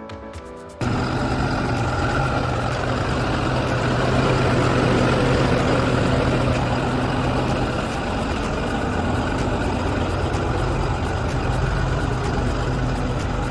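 Diesel engine of a 2011 International DuraStar 4300 truck idling steadily. It cuts in suddenly about a second in, and runs a little louder for a couple of seconds midway.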